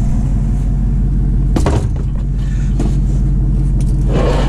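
Truck engine running steadily with a low rumble, and a single sharp knock about a second and a half in.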